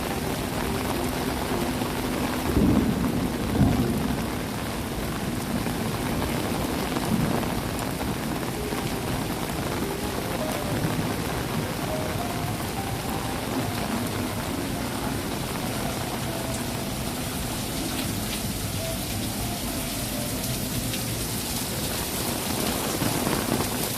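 Steady rain falling, a dense even hiss. A couple of louder low rumbles or thumps come about three seconds in.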